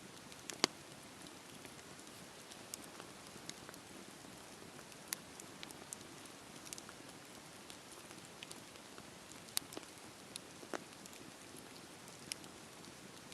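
Campfire burning with a steady low hiss and irregular sharp crackles and pops of the wood, a few louder snaps among many faint ones.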